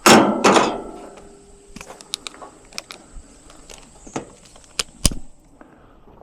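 Tools and hardware being handled: a loud clatter at the start, then scattered light clicks and rattles, and a sharp knock about five seconds in.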